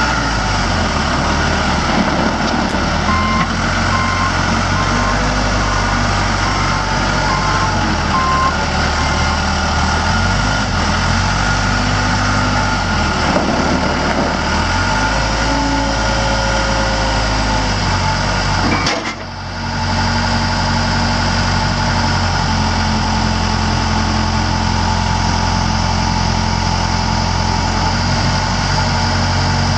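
Case 580L backhoe's Case 4-390 four-cylinder diesel engine running, its pitch rising and falling during the first half and then settling into a steady run. A backup alarm beeps for several seconds near the start.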